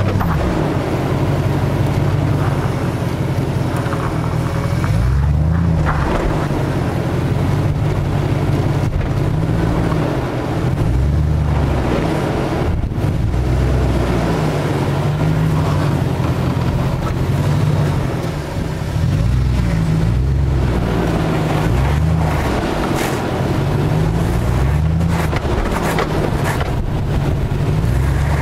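Jeep Grand Cherokee WJ engine revving up and down again and again as the 4x4 crawls over a steep sandy ledge, heard from outside the vehicle with wind buffeting the microphone.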